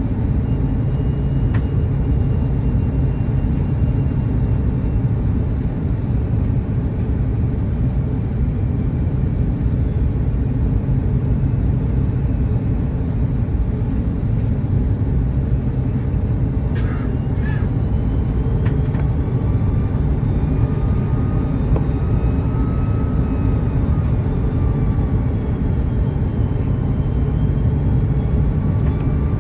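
Cabin noise of an Airbus A330-202 in flight: a steady, dense rumble of airflow and its General Electric CF6-80E1 engines. Faint whining tones drift slowly up and down in pitch through the second half, and there are a couple of brief clicks about two-thirds of the way through.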